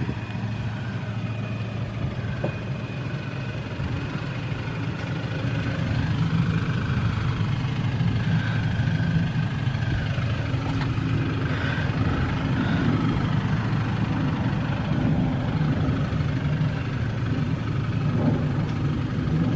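Car engine idling as the car moves up slowly, a steady low hum that grows a little louder about six seconds in.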